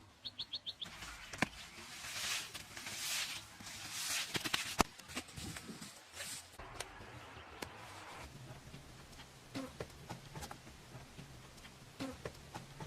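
A bird chirps four times in quick succession. Then come repeated swells of scraping and sharp knocks, the loudest knock about five seconds in.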